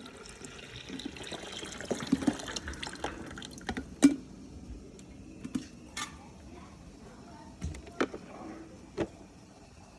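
Water trickling and splattering from a leaking MEOMY coffee maker. After about four seconds it thins to a few separate drips, roughly one a second.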